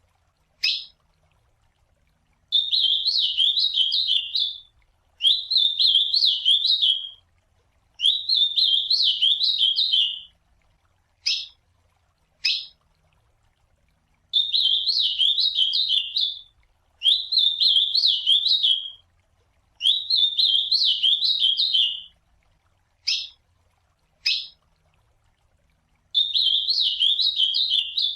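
Ultramarine grosbeak (azulão) singing: seven warbled song phrases of about two seconds each, with short single call notes in the gaps between them.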